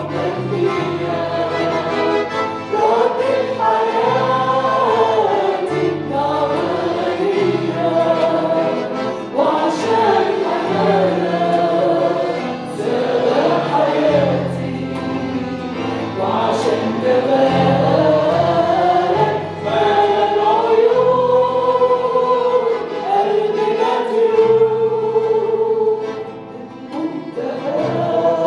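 Church worship singing: a group of voices singing a hymn together over instrumental accompaniment with held bass notes that change every second or two.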